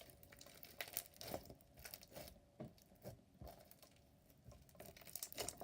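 Clear slime being stretched and squeezed by hand, giving faint, irregular sticky crackles and small pops.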